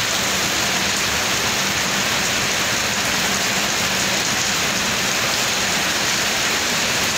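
Heavy rain pouring down onto a road: a steady, even hiss.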